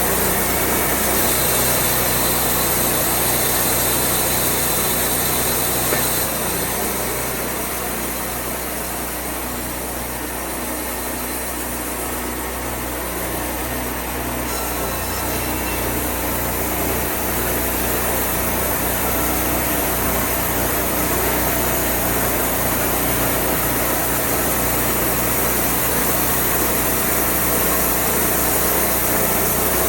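Engine of a Wood-Mizer portable band sawmill running steadily, easing off slightly for several seconds about a quarter of the way through before picking back up.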